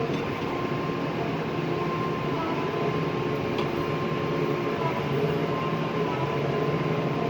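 Tractor engine running steadily under load while driving across a soft field, heard from inside the cab: an even drone with a faint high whine over it.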